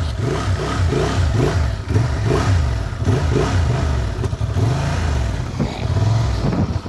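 Harley-Davidson 750 motorcycle engine running, its revs rising and falling over and over as the bike moves off.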